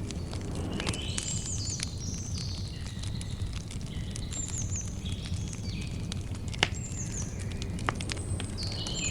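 Campfire crackling: a steady low rumble of flames with scattered pops, two sharper ones a little past the middle. Birds call over it with repeated short, high chirps and whistled notes.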